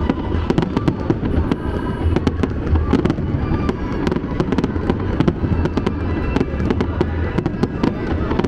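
Fireworks bursting in rapid, irregular succession, a dense run of sharp bangs and crackles over a low rumble, with music playing underneath as part of a pyro-musical show.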